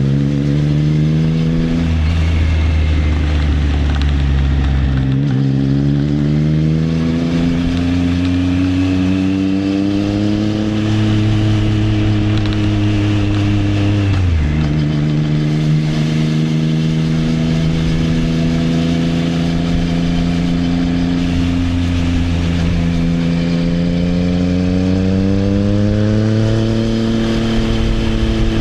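Triumph Trident 660 inline three-cylinder engine running through an Arrow exhaust under way, its revs climbing gradually through the gears. The pitch drops sharply twice, about five seconds in and midway, as it shifts up, then rises again.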